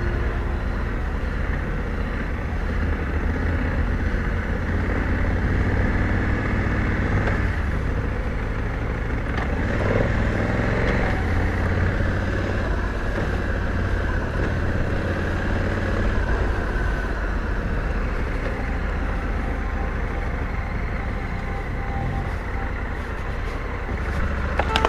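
Big adventure motorcycle engine running steadily while under way, its pitch and level changing little.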